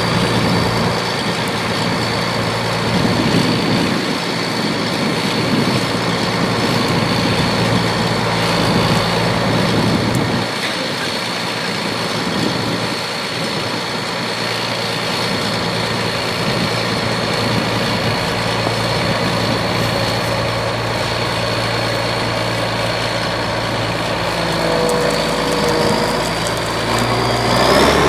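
Case International 1660 Axial-Flow combine running steadily while harvesting soybeans: a low diesel engine note with a constant high whine from the machine. Near the end the whine rises in pitch.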